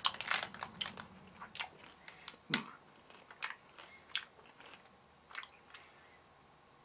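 Someone chewing and crunching peanut M&Ms close to the microphone: irregular crisp crunches, closer together at first, then thinning out toward the end.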